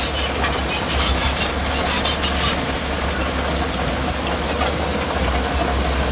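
Heavy earthmoving machinery running: a steady low engine drone with rapid metallic clanking and a few brief high squeals throughout.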